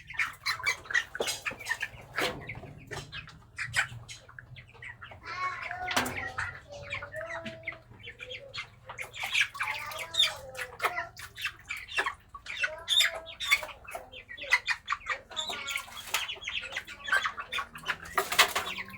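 Broiler chickens squawking, with repeated short wing-flapping and scuffling sounds.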